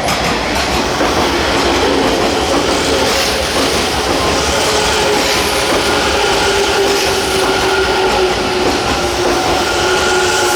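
A Kintetsu electric train running past at close range, loud and steady, with a steady whine over the running noise.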